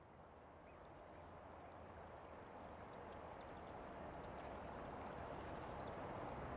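Outdoor ambience gradually getting louder: a steady low rush, with a small bird repeating a short, high, upward-flicking call about once a second.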